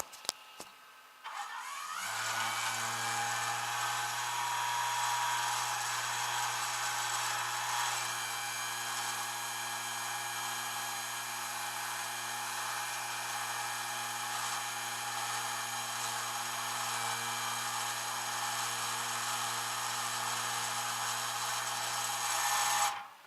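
A motor-driven machine running steadily for about twenty seconds with a low hum and a loud hiss, starting after a few clicks and cutting off suddenly.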